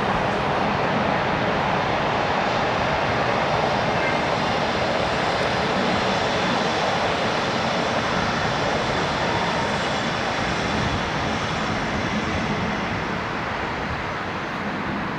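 Jet engines of an Airbus A300-600 freighter coming in to land, a steady rushing jet noise with a faint high whine, easing off slightly near the end.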